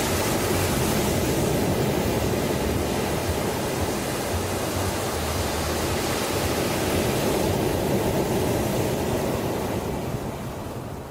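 Ocean surf: a continuous rush of breaking and washing waves that swells and then ebbs away near the end.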